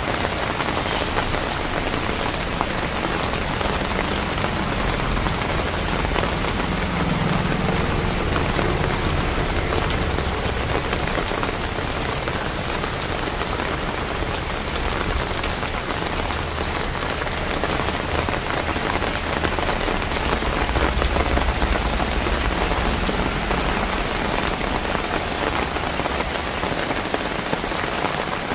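Steady rain falling on a wet street, an even hiss of drops with no let-up, with a low rumble swelling briefly twice.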